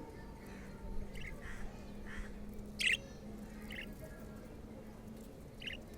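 Pet budgerigars chirping: short, separate squawky chirps every second or so, the loudest about three seconds in.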